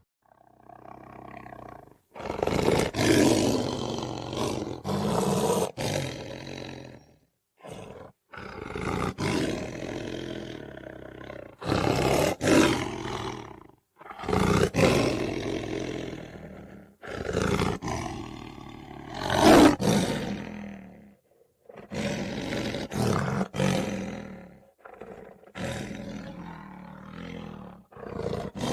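Tiger roaring again and again, a series of rough calls each lasting one to a few seconds with short pauses between them. Some of the calls start or stop abruptly.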